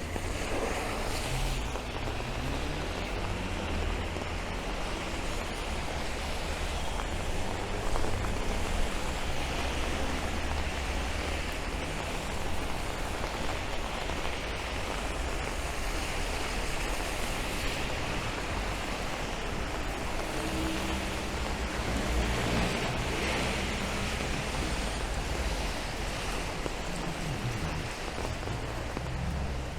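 Steady rain falling on a city street, with the hiss of traffic on the wet road swelling and fading a couple of times over a low rumble.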